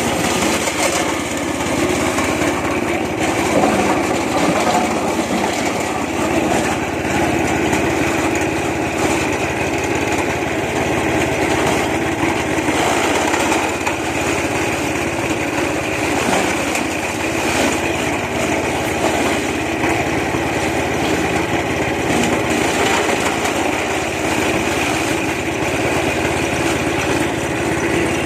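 Shineray SR460 16 hp petrol engine running steadily at constant speed, driving a TK100-WC sugarcane chipper.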